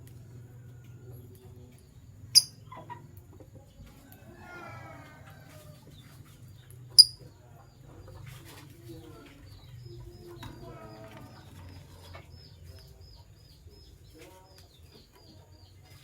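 Lovebirds calling: two loud, sharp, high chirps about two and a half and seven seconds in, softer chattering calls between them, and a run of quick high peeps through the second half, over a low steady hum.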